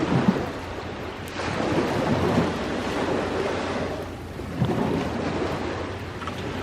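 Ocean waves breaking and washing up the shore in surges, a long wash building about a second in and easing off, then another wave breaking near the end.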